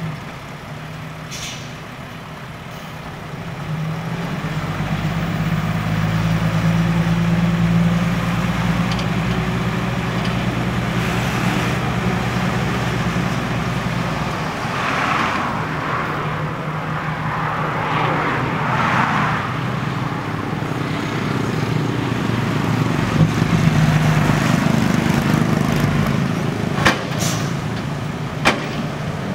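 Six-wheel dump truck's engine running, louder from a few seconds in and held under load as the truck works to free itself from mud, with several rushing noises midway and a few sharp clicks near the end.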